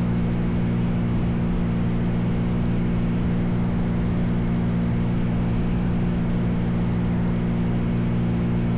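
Cessna 182's piston engine and propeller running steadily in flight, heard from inside the cabin as an even, unchanging drone.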